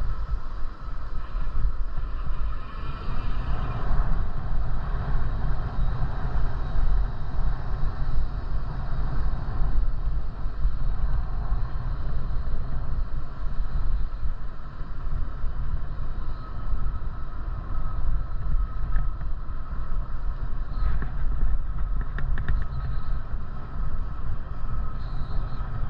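Wind buffeting the microphone during a bicycle ride, a steady, fluctuating low rumble, with a few faint clicks near the end.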